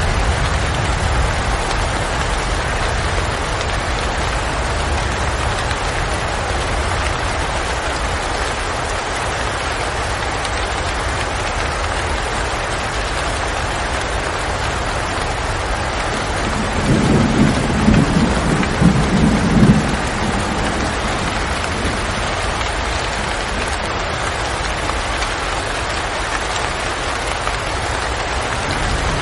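Steady rain falling. A low rumble of thunder rises a little past the middle and lasts about three seconds.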